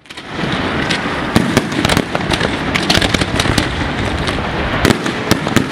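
Fireworks display: many shells and comets going off in quick succession, a dense continuous crackle and rumble with frequent sharp bangs. The sound swells in over the first half second.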